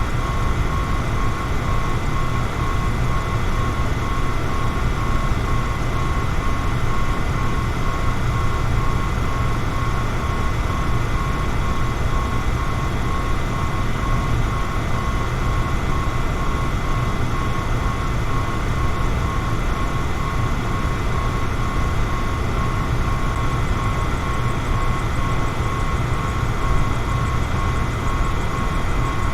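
Electric fan running steadily: an even whoosh of moving air over a low rumble, with a faint steady whine from the motor.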